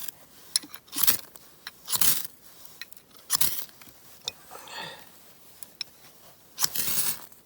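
Ferro rod being scraped with a striker to throw sparks onto wet birch-bark tinder: a handful of short, sharp rasping strikes about a second apart, with a pause in the middle.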